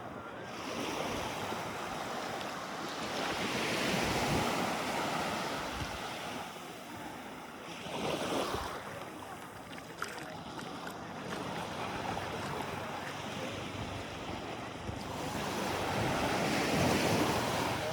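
Sea waves washing in and receding, swelling louder three times, with wind buffeting the microphone.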